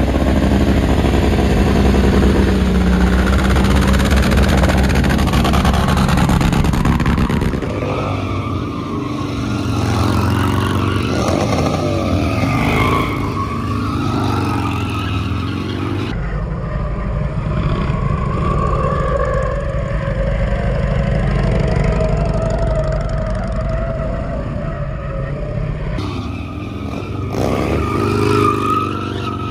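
Motorcycle engines running loudly and revving, with the sound changing abruptly three times.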